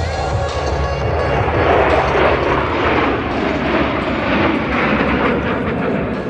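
Jet noise from a formation of F-16 Fighting Falcon fighter jets passing overhead: a loud rushing that swells to its peak about two seconds in and then slowly fades.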